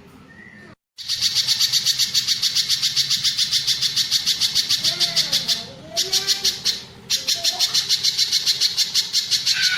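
Spiderhunter (pijantung gunung) singing a fast, even run of high chattering notes, about six a second, which starts abruptly about a second in and breaks off briefly twice near the middle.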